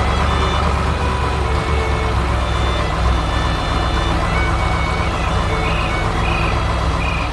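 Heavy machinery engine running steadily with a low rumble, and a few short high beeps in the second half.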